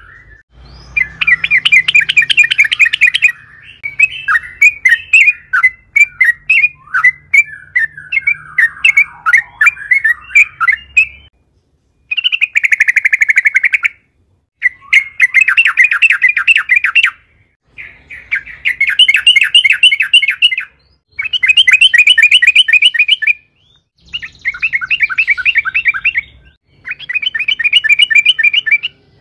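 Yellow-vented bulbul (trucukan) singing: loud bouts of very fast, rattling repeated notes, each lasting two or three seconds with short pauses between, and a looser, more varied chattering passage in the first half.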